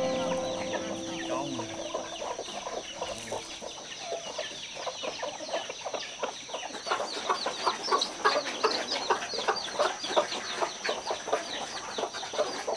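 A flock of chickens clucking and cheeping, with many short calls in quick succession that grow busier about halfway through. Background music fades out in the first couple of seconds.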